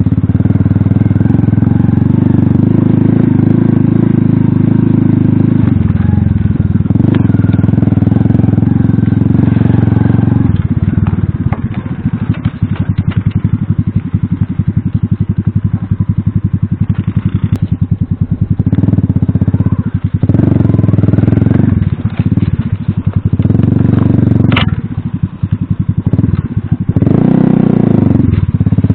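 Alpha moped's small engine running hard at steady high revs, then easing off and picking up again several times as the throttle is closed and reopened in the second half.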